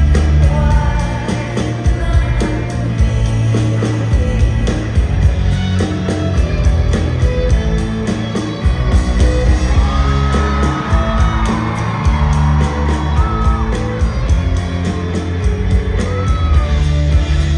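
A live band playing with a singer's lead vocal over a steady drum beat and heavy bass, heard from the audience in a large concert hall.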